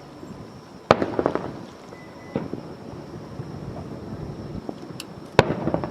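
Fireworks shells bursting overhead: a sharp bang about a second in followed by a short run of crackling pops, a smaller pop a little later, and another sharp bang with crackling near the end.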